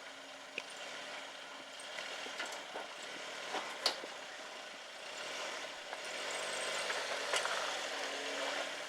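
Suzuki Jimny JB23 engine running at low revs while the vehicle crawls over rocks: a faint steady engine drone under a hiss. A few sharp knocks and clicks come through, the loudest about four seconds in, and the engine gets a little louder in the second half.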